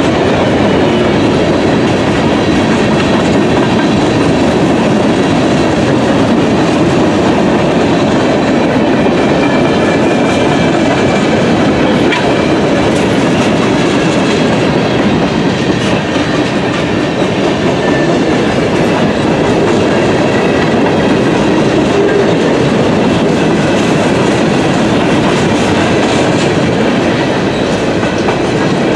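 Freight train cars rolling past at a steady speed, a loud continuous rolling noise of wheels on rail.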